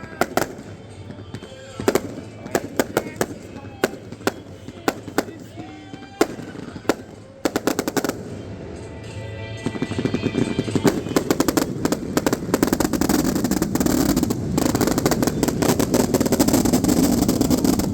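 Fireworks display: scattered sharp bangs for the first several seconds, then from about ten seconds in a dense, rapid barrage of bangs and crackle that builds and keeps going, the show's finale. Really loud.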